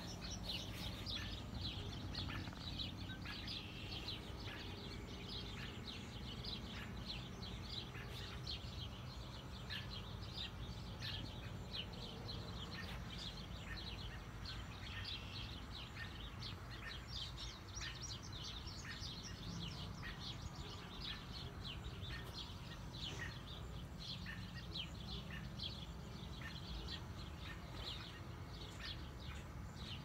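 Birds chirping and singing, many short chirps in quick succession with no break, over a steady low background rumble.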